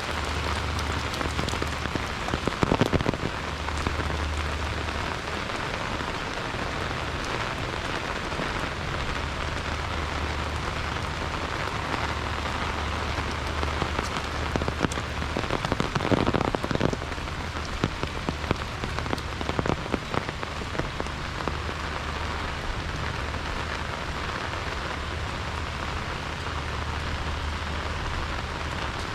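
Heavy rain falling steadily, with a low rumble underneath. Louder patches of close drops come about three seconds in and again around sixteen seconds in.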